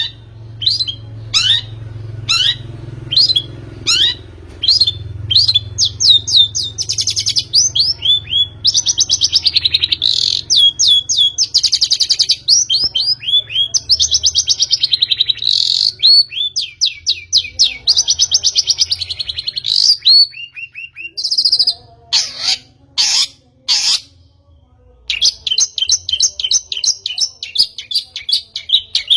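Long-tailed shrike (pentet) singing in a lure recording meant to provoke other shrikes into song. It gives a run of quick downward-sweeping whistles, then long, rapid, buzzy trills and harsh chatter, with a brief break about three-quarters of the way through.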